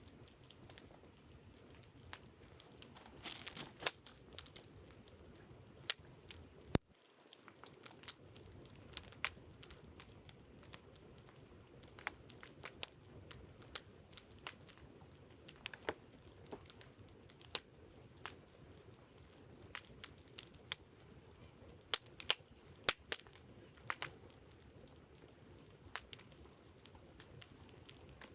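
Wood campfire crackling and popping, with irregular sharp snaps of varying strength every second or so.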